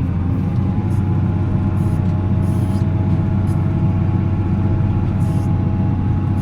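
Volvo L70C wheel loader's diesel engine running steadily with a constant low drone, with a few short bursts of hiss above it.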